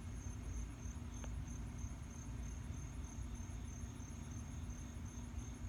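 Insects chirping in a steady, even, high-pitched pulse, over a low steady hum and rumble.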